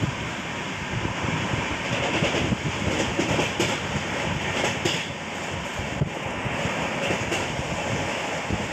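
Express train's sleeper coach running at speed, heard from the open doorway: a steady rumble of wheels on the track with occasional irregular clacks.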